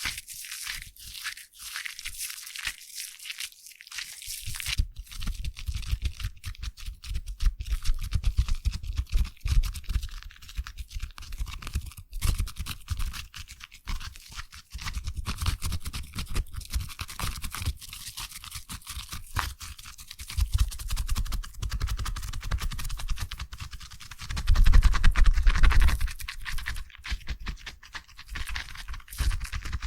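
Foam crackling and fizzing close to the microphone: a dense stream of tiny pops and a high hiss, with a low rumble of handling that grows heavier about twenty-five seconds in.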